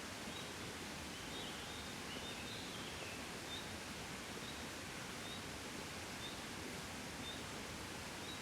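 Gentle wind blowing steadily in the open, with a bird in the background giving short high chirps about once a second and a brief twitter a second or two in.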